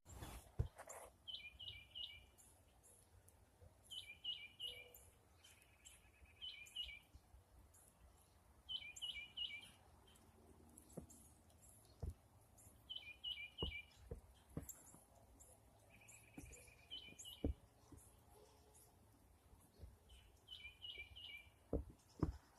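Small songbird calling faintly in short repeated phrases of three or four high notes every few seconds, with a couple of brief trills, and a few faint soft knocks now and then.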